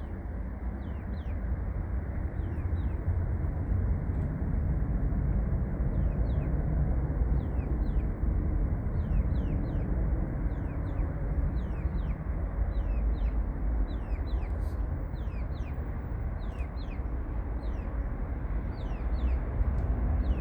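Steady rumble of an Airbus A330-343 airliner's Rolls-Royce Trent 700 jet engines, with small birds chirping over it in many short falling calls.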